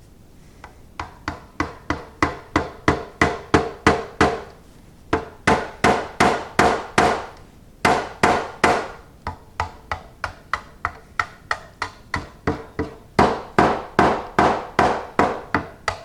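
Hammer blows on the sheet steel of a tool chest in a quick, steady series, about three to four a second with a couple of short pauses. Each blow rings briefly.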